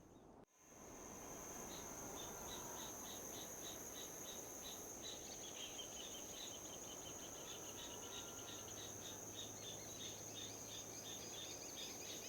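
Crickets or other insects calling outdoors: a steady high trill with rhythmic chirps at about three a second, over a soft even rush of wind. The sound drops out for a moment about half a second in.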